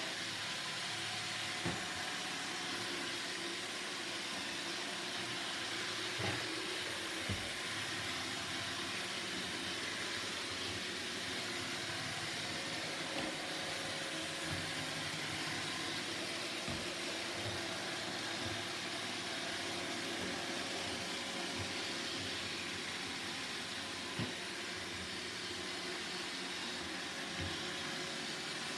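Roomba robot vacuum running steadily, a constant whirring hiss with a few light knocks scattered through it.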